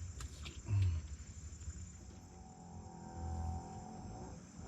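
Generator-powered electrofishing rig across the river, heard as a pitched hum with several overtones that comes in about two seconds in and fades near the end, over steady night crickets and insects. A few low thuds come in between.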